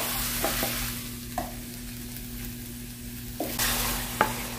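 Seafood and bell-pepper stir-fry sizzling in a hot frying pan, with a wooden spoon scraping and knocking against the pan a few times as the food is moved about.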